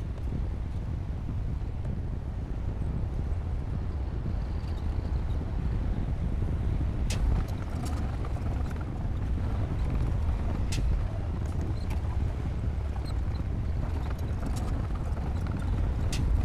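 D60P bulldozer's diesel engine running with a steady low rumble, with scattered sharp clanks and knocks from the machine at work.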